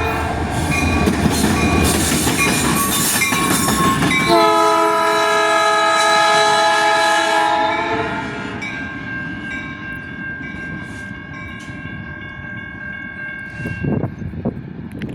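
Freight train passing with wheel and rail noise, its locomotive horn sounding one long blast of several notes at once from about four seconds in, lasting about four seconds. The train noise then fades, and a few thumps come near the end.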